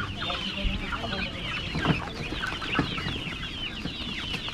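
A flock of chickens calling at once: a dense, unbroken stream of short high chirps and clucks overlapping one another.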